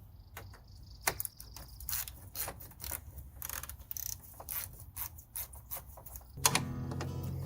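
Ratchet wrench clicking in quick, irregular runs while undoing the hood latch bolts. Background music comes in about six seconds in.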